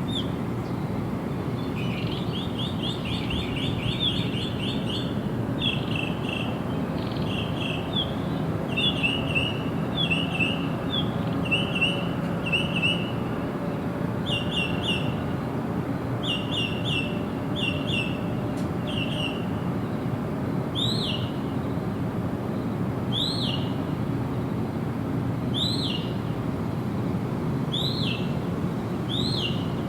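Songbirds calling: quick runs of short, high chirps, changing about two-thirds of the way through to a single rising note repeated every couple of seconds. A steady low rushing noise lies under the calls.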